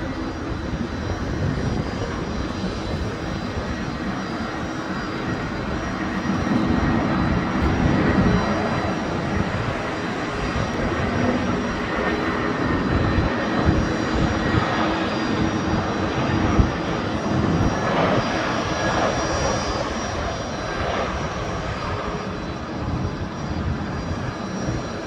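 Airliner engines running at an airport: a steady, loud rushing noise with faint whining tones. It swells about a third of the way in and again past the middle.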